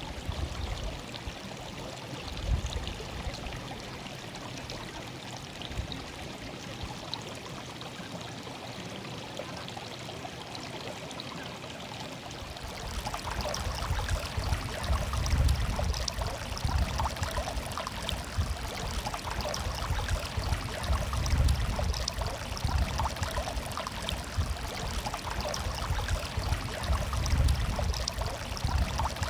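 Water murmuring in a stream, a steady babbling flow. About halfway through it grows louder and fuller, with a deeper rumble to the splashing.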